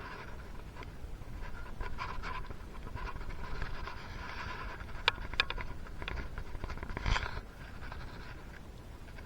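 Hand work on engine parts: steady rubbing and scraping, with a few sharp clicks about five to seven seconds in.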